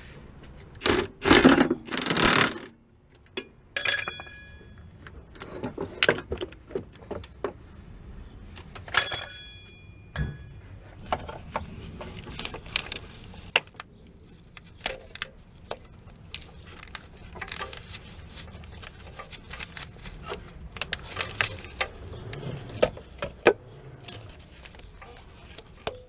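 Metal tools and parts clinking and clattering, with scraping and handling noise at the start. A metal object rings out when struck, about four seconds in and again about nine seconds in.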